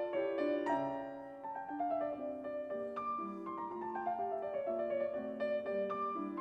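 Background piano music: a steady run of gentle single notes and chords.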